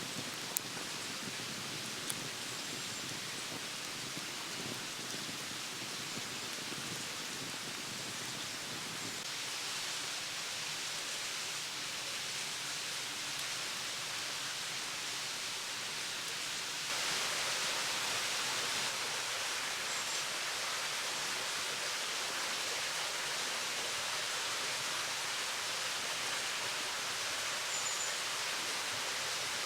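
Steady rushing water noise, with a couple of sharp clicks in the first two seconds; about 17 seconds in it steps up suddenly, louder and brighter.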